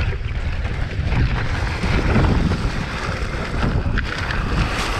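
Mountain bike descending a steep, rough trail at speed: wind buffeting the microphone over a steady low rumble of the tyres, with frequent clicks and rattles of the bike over the ground.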